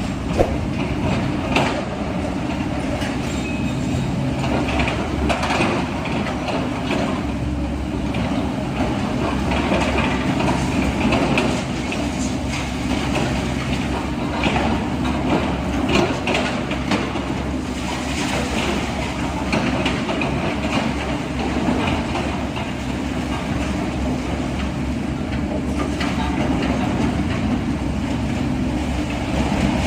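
Heavy diesel earth-moving machinery running steadily, with a constant low engine drone and scattered metallic clanks and knocks.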